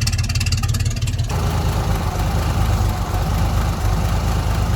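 Hall-Scott 1091 cubic-inch inline-six engine of a 1958 Mack B-21 fire truck running rough and unhappy, just brought back to life after 30 years of sitting, with a steady low pulsing beat. A hiss joins the engine sound about a second in.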